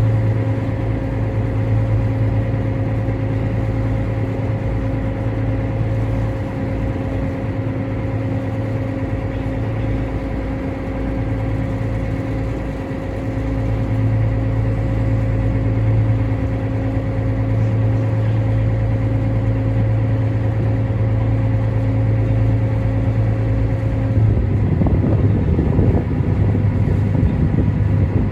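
Small car-ferry's engine running with a steady low hum. About 24 seconds in its note changes and becomes rougher.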